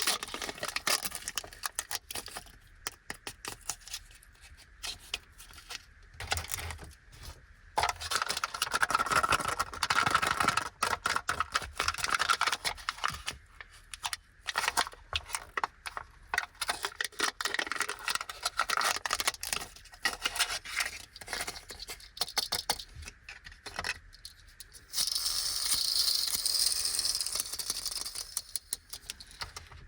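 Opening a Toys Egg, a plastic toy capsule with candy: packaging crinkling and tearing, and small hard plastic pieces clicking and rattling, with a longer burst of rustling near the end.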